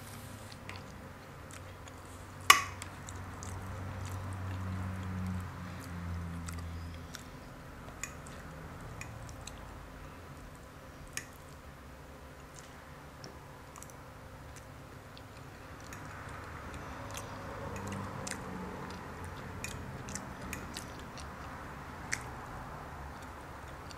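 Close-up chewing of loaded carne asada fries, with small wet mouth clicks. A single sharp click comes a couple of seconds in.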